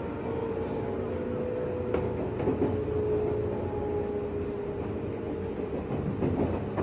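JR West 201 series electric train running, heard inside the motor car: steady wheel and motor rumble under a motor tone that drifts slightly lower in pitch, with a few sharp clicks about two seconds in.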